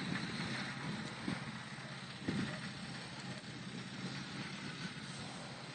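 Faint, steady hum of a Honda motorcycle engine running, with wind noise on the microphone.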